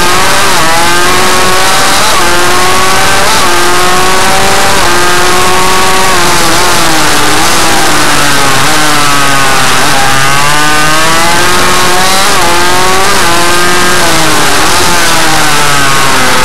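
Small motorcycle engine running loud and revving hard, its pitch climbing and dropping again and again as the throttle is worked and the gears change.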